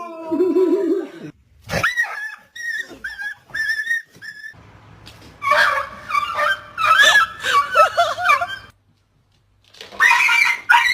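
Pet animals crying out in separate bouts: a wavering low yowl at first, then a run of short high whines or squeals, then a longer stretch of gliding cries, and a last bout near the end after a brief silence.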